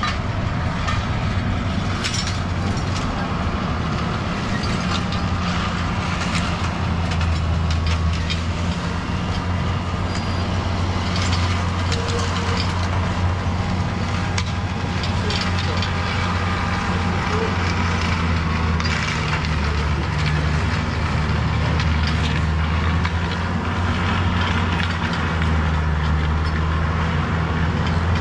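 Train running through the station: a steady low drone with scattered clicks and rattles from the wagons.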